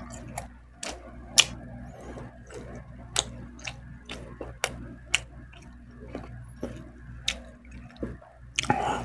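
Close-miked wet eating sounds: sharp lip smacks and mouth clicks while chewing, irregular, about one or two a second, with a louder burst of noise near the end.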